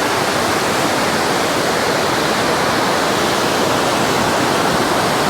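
Steady, loud rush of water from a waterfall and the stream running away from it.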